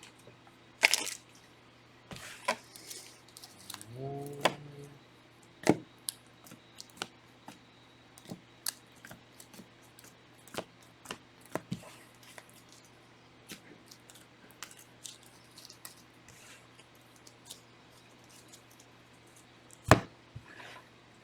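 Irregular light clicks and taps of things being handled and set down on a desk, with a short hum about four seconds in.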